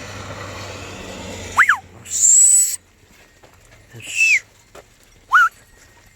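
A series of short, loud whistles used to drive sheep: a quick rise-and-fall, a long piercing high whistle, then a falling one and a rising one. Traffic noise fades out about a second and a half in.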